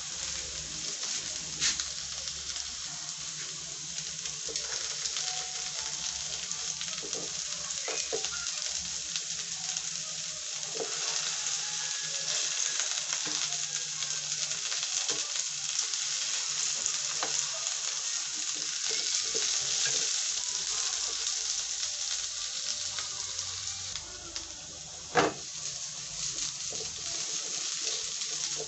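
Potato and carrot pieces sizzling steadily in hot oil in a non-stick frying pan, browning until crisp. About 25 seconds in there is a single sharp knock.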